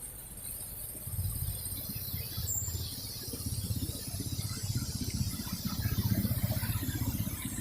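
A motor vehicle engine runs with a low, pulsing rumble that sets in about a second in and grows a little louder.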